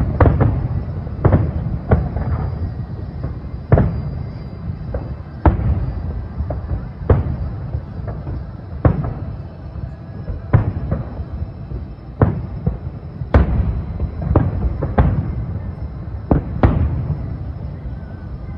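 Distant aerial fireworks shells bursting in a steady series, a boom about every second or two, each trailing off, over a continuous low rumble.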